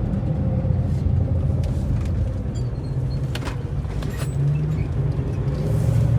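Chevy S10 drag truck's engine running with a steady low rumble, a few light clicks partway through.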